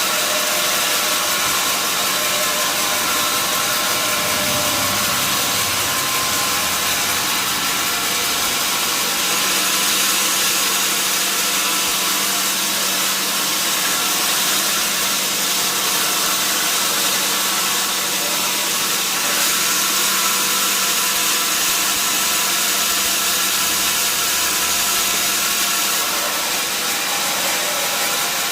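Sawmill saw running steadily: a constant, loud machine noise with a steady hum and many steady tones over it.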